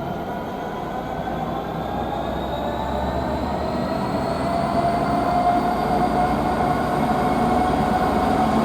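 A train running through the station, getting steadily louder, with a whine that slowly rises in pitch as it gathers speed.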